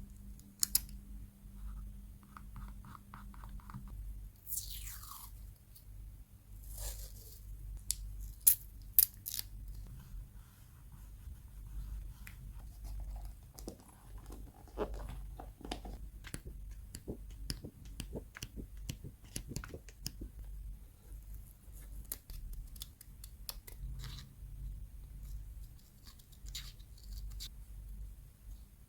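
Close-miked paper crafting: scissors snipping and paper or tape being torn, with many small ticks and clicks as the paper is handled. Two sharp clicks stand out about eight and a half and nine seconds in.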